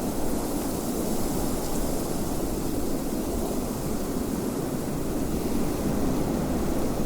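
Steady low wind rushing, an even noise without gusts or breaks.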